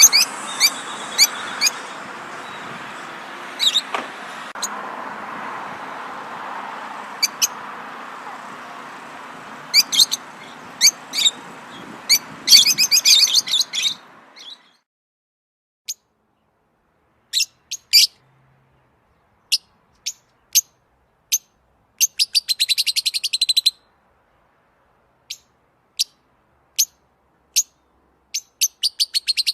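Birds chirping: short, sharp, high chirps with a few quick rapid trills. For the first half they sit over a steady background hiss, which cuts out suddenly about halfway through, so the later chirps and trills stand alone against silence.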